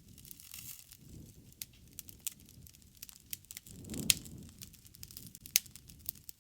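Wood campfire burning: irregular sharp crackles and pops over a soft low rumble of flames, with one louder pop about four seconds in.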